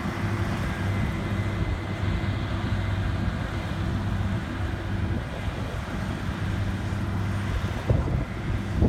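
Farm harvest machinery's engine running steadily, with a few knocks near the end.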